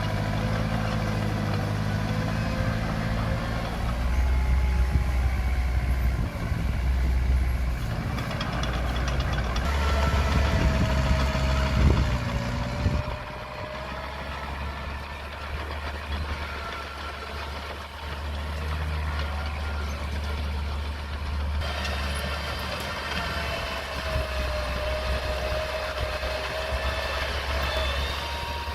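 Komatsu mini bulldozer's diesel engine running under load, loudest in the first half and easing off about halfway through, with a whining tone that bends up and down over the engine hum.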